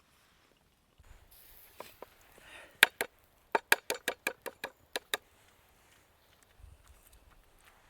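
A quick run of about a dozen sharp knocks, about four a second, starting about three seconds in; the first is the loudest.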